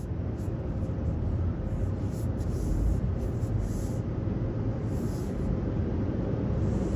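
Vehicle engine idling: a steady low rumble with a faint steady hum over it.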